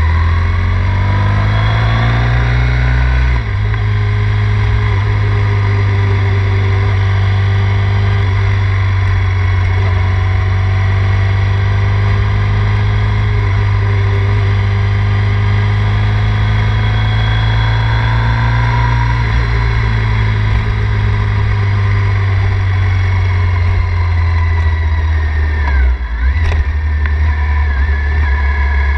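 Triumph Thruxton 900's parallel-twin engine heard from the rider's seat while under way: the revs climb over the first few seconds, drop suddenly at a gear change, then the engine pulls steadily. About two-thirds through the revs ease off, and near the end there is a brief dip before it pulls steadily again.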